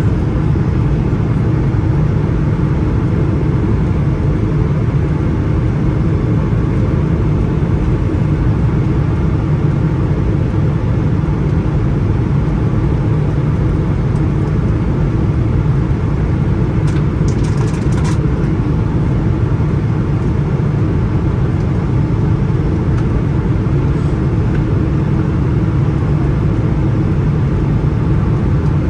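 Steady cabin noise inside a Boeing 777-300ER airliner in flight: the low drone of its GE90 turbofan engines and rushing airflow, heard from a window seat, holding even throughout.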